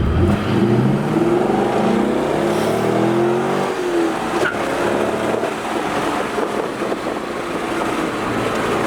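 Corvette V8 accelerating hard, its pitch climbing for about four seconds, then easing off into a steady cruise with road noise, heard from inside the cabin.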